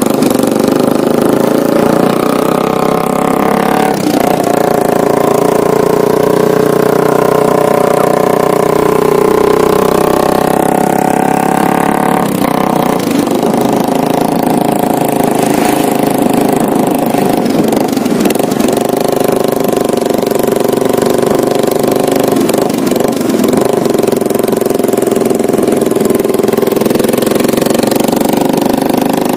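Motorcycle engine running through a homemade exhaust, a loud, fairly steady exhaust note with slight shifts in pitch, heard on a test ride.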